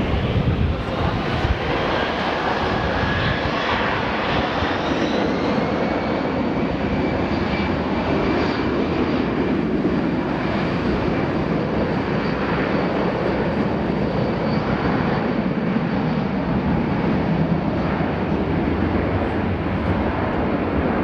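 Jet airliner's engines running, with a steady rumble and a whine that rises in pitch over the first few seconds, then holds steady.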